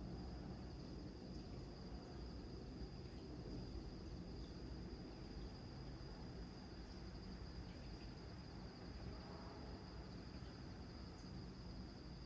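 Crickets trilling steadily in a high, continuously pulsing chorus over a low rumble of surf.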